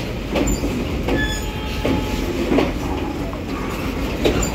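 Freight train of open steel goods wagons passing close by: a steady rumble with repeated clacks as the wheels cross rail joints.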